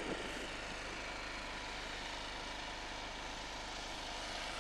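Steady engine drone with an even hiss, holding one level throughout.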